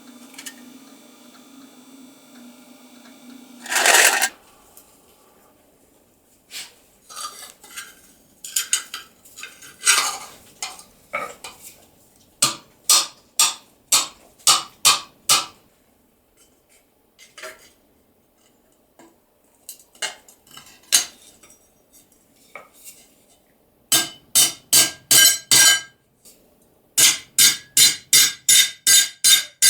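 Hand hammer striking thin steel sheet on an anvil with bright, ringing metallic blows: scattered single strikes at first, then fast even runs of strikes, about three or four a second, near the end. It opens with a faint steady hum and a short, loud rushing burst.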